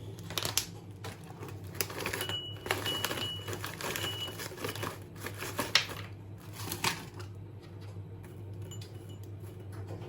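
Irregular clicks and light clatter of small objects being handled, over a steady low hum, with a few short high beeps early on.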